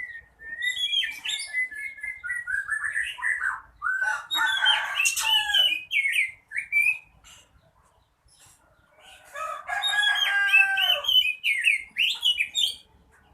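Oriental magpie-robin singing a loud, varied song of whistles, warbles and buzzy trills. It comes in two long bouts separated by a pause of about two seconds.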